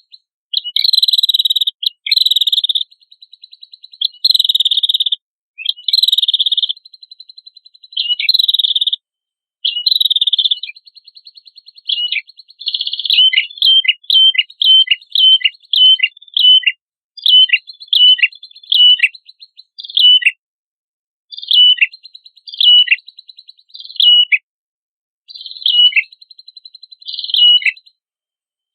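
Prenjak kepala merah, a prinia, calling loudly: buzzy, rapidly trilled phrases about every two seconds. About halfway through it switches to a quick series of sharp notes sweeping down in pitch, mixed with short trills.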